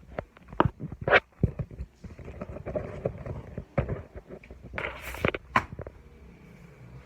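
Irregular knocks and clicks at an uneven pace, with a short burst of hiss about five seconds in.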